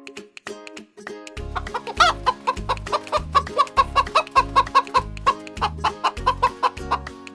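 Hen clucking in quick repeated clucks, starting about a second and a half in, over background music.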